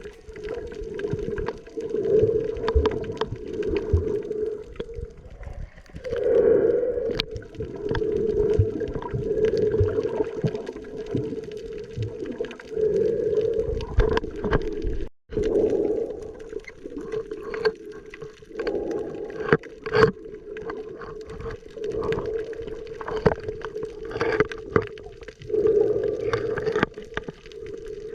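Underwater sound picked up by a camera while snorkeling: a low hum that swells and fades every second or two, with constant crackling clicks.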